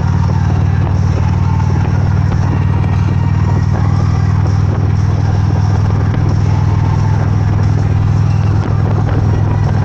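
Motorcycle engine running at a steady speed while riding, a constant low drone with no revving.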